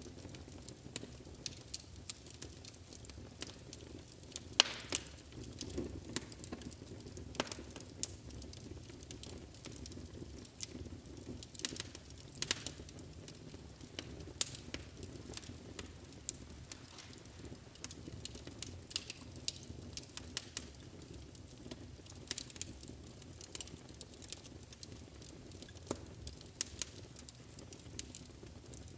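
Wood fire burning in a fireplace, crackling with frequent irregular sharp pops and snaps over a steady low rush of the flames.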